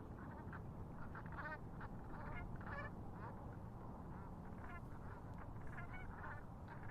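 A flock of waterfowl calling: many short, overlapping quacking and honking calls, scattered irregularly, over a steady low rumble.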